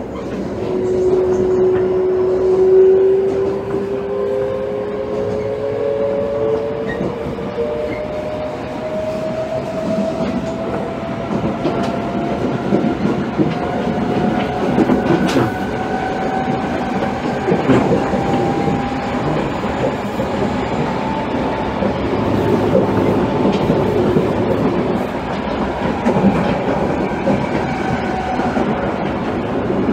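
Toei 5300 series subway train running, its Mitsubishi GTO inverter and traction motors giving a whine that rises in pitch as it accelerates, first in steps and then in a slow glide that levels off after about twenty seconds. Under the whine are the rumble of the wheels and rail-joint clicks.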